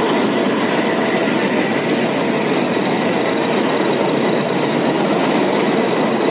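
Metre-gauge passenger coaches rolling past close by behind a YDM4 diesel locomotive: a loud, steady noise of wheels running on the track, with a faint steady high tone over it.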